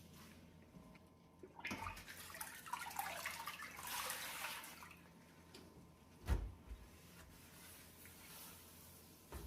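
Water splashing and trickling for about three seconds during cleaning, then a single sharp knock a couple of seconds later.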